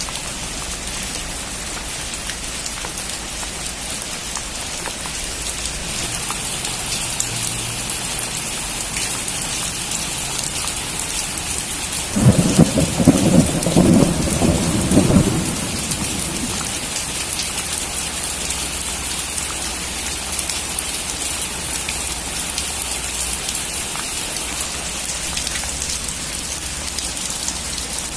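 Steady rain, growing a little heavier about six seconds in, with a loud clap of thunder about halfway through that rolls on for three or four seconds.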